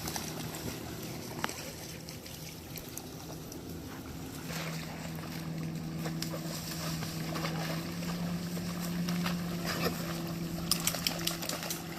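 A steady motor hum that grows stronger about four and a half seconds in, with a few sharp clicks near the end.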